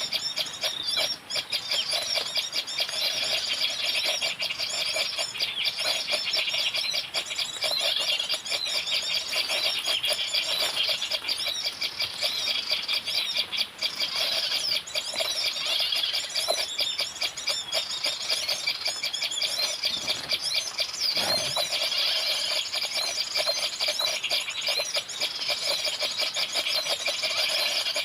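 Continuous rapid, high-pitched bird twittering and chirping, dense and unbroken.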